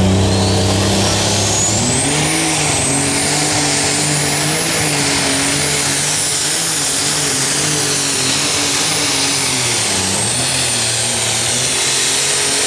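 Unlimited super stock diesel pulling tractor under full power, its turbochargers' whistle climbing to a high steady whine over the first two seconds and holding. Beneath it the engine note wavers as it works against the load.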